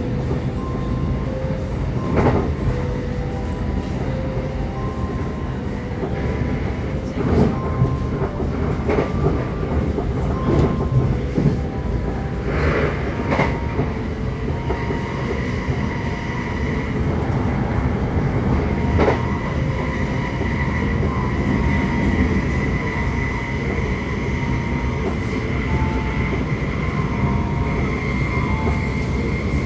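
Passenger train heard from inside the carriage while running at speed: a steady low rumble with a sharp clack over the rails every few seconds. A steady high tone comes in about halfway and holds.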